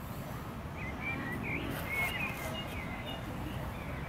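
Songbirds chirping: a quick string of short calls starting about a second in and fading out before the end, over a steady low rumble.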